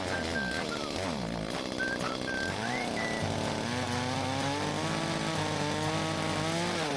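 Two-stroke chainsaw engine revving, its pitch climbing about three seconds in, holding high, then dropping back just before the end.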